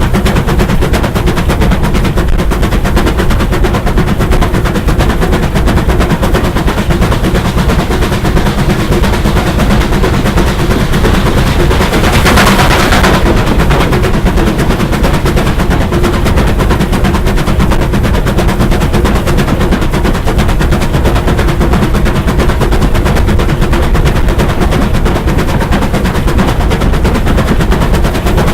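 Steam locomotive working hard, its exhaust beats coming in a fast, continuous rapid-fire stream, with a brief burst of hiss about twelve seconds in.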